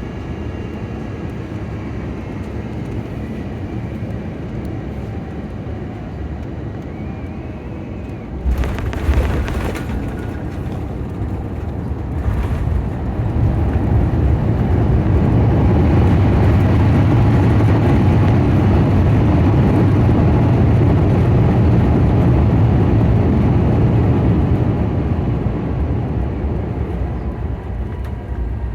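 Airbus A350 landing heard from inside the cabin: a steady rumble, a sudden jolt of touchdown about eight and a half seconds in, then the Rolls-Royce Trent XWB engines' reverse thrust and braking build to a loud, sustained rush that eases off near the end as the jet slows on the runway.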